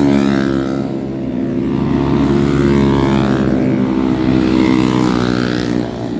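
Motorcycle engine running loudly with a steady low drone, its pitch swelling and falling a few times.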